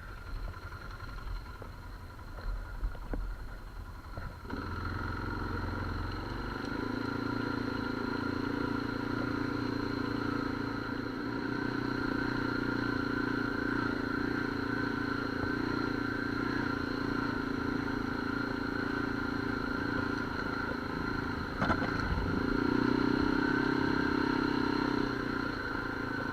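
An ATV engine running at a steady speed while riding, rising in level about four seconds in and holding a steady note, with a single click near the end.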